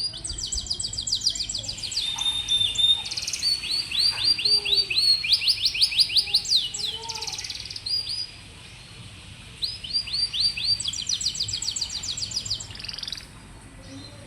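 Domestic canary singing: runs of fast, rolling trills of rapidly repeated high notes, each phrase changing pitch and pattern from the one before, with a pause of about a second and a half in the middle.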